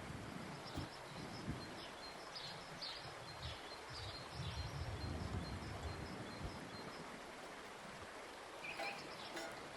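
Outdoor ambience: a steady even hiss with faint high bird chirps through the first half, and low rumbling around the middle.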